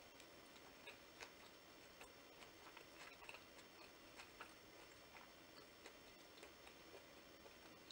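Faint close-up chewing of a Vietnamese fresh spring roll of rice paper, lettuce and noodles: soft, irregular little clicks and crunches, a few a second.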